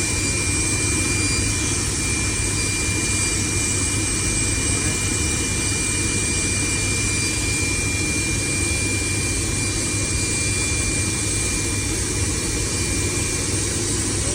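Large power-plant turbine running at a steady speed on its first start-up after an overhaul: a constant loud machine noise with a low hum and a thin, steady high whine.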